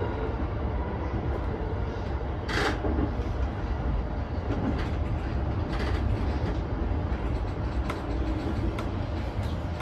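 Cab ambience of a JR East E233 series 7000 electric commuter train: a steady low rumble, with one short sharp hiss of air about two and a half seconds in and a few light clicks later on.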